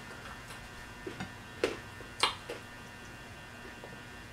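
Person chewing pizza close to the microphone: a few short, sharp mouth clicks and smacks, the loudest about two seconds in, over a steady electrical hum.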